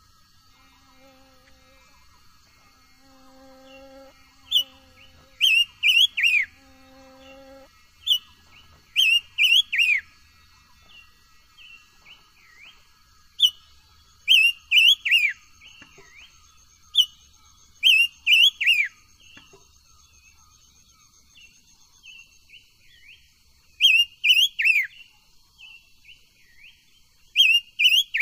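Silver-eared mesia singing: short phrases of loud, quick, downward-slurred whistled notes, repeated every few seconds, with softer single notes between them. A faint steady high-pitched tone runs underneath.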